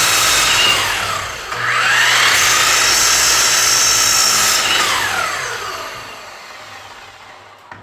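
An electric power tool motor whining at full speed. It slows down, is started again and spins back up, runs steadily, then is switched off about two-thirds of the way through and winds down until it fades out.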